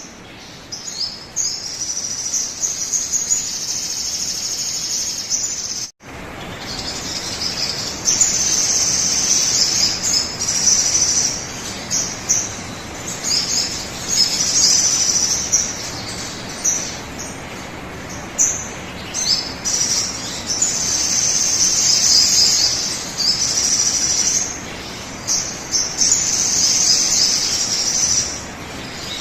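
Sogon bird song played as a lure call: long phrases of rapid, high chirping lasting several seconds each, separated by short gaps, with a brief cut-out about six seconds in.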